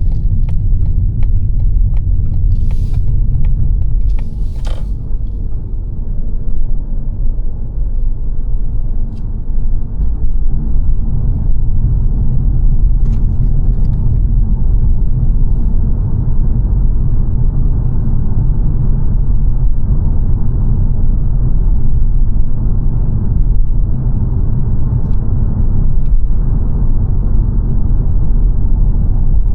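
Steady low rumble of road and engine noise inside a moving 2022 Mazda 3 saloon's cabin, with a few brief ticks or clicks in the first few seconds.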